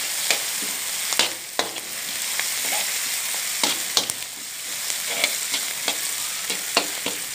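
Sliced onions with ginger-garlic paste sizzling in hot oil in a metal wok, while a slotted metal spatula stirs them, scraping and clicking sharply against the pan at irregular moments, about once a second.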